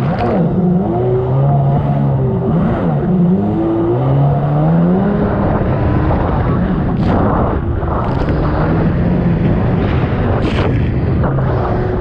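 1999 Sea-Doo XPL personal watercraft's two-stroke engine running hard, its pitch rising and falling through the first half and then holding steadier, with a few short rushes of noise in the second half.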